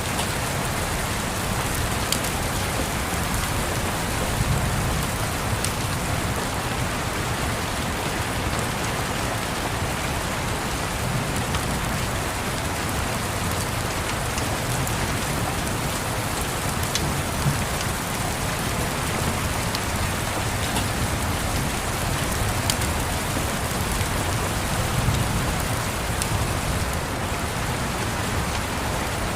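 Steady rain, with faint scattered ticks and soft low rumbles of distant thunder now and then.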